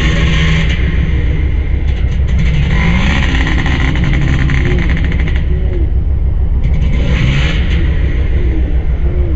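Yamaha 250X dirt bike engine revving up and down repeatedly as the throttle is opened and closed on the trail, over a heavy steady low rumble.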